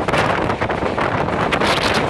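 Wind buffeting the microphone held out from the side of an express train coach at speed, over the steady running noise of the train on the rails.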